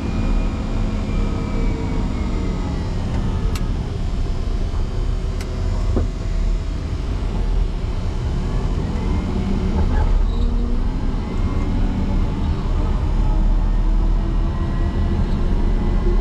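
Motor grader's diesel engine running under load, its pitch dipping and rising again as it works in deep snow, with a few sharp clicks.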